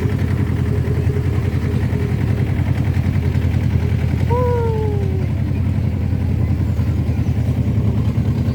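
Small engine of a miniature railway locomotive running steadily with a low, fast, even throb. A single short falling tone cuts across it about halfway through.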